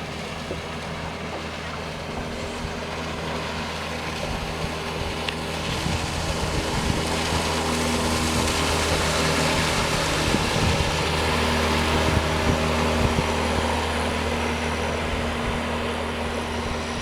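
9.9 hp (220 cc) outboard motor running at a steady speed under a hiss of water and wind. The hiss grows louder about six seconds in, then eases near the end.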